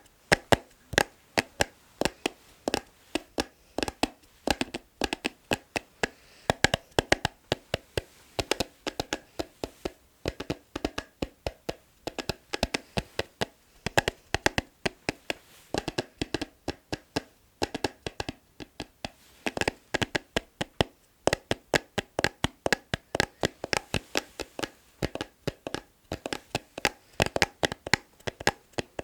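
Fingers tapping rapidly and rhythmically on an object, a steady stream of sharp clicks in quick clusters of several taps a second.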